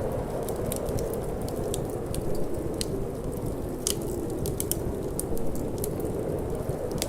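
Wood fire crackling and popping in a fireplace, with frequent sharp irregular pops over a steady low rushing wind.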